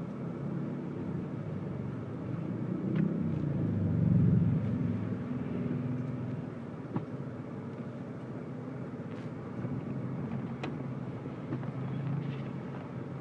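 Toyota Camry 2.4 on the move, heard from inside the cabin: a steady low hum of engine and road noise. It swells briefly about four seconds in, and a few faint clicks come over it.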